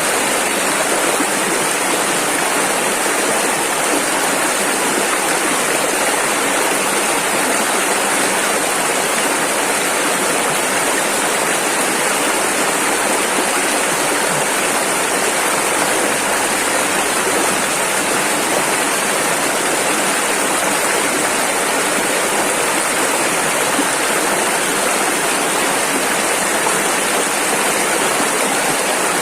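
Rushing river water running over rapids, a dense steady rush with no breaks or changes.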